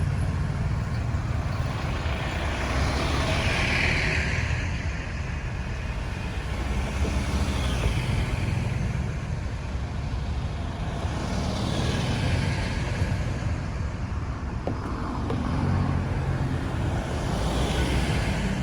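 Road traffic: a steady low engine rumble, with three vehicles passing by, each a rising and falling swish of tyre and engine noise.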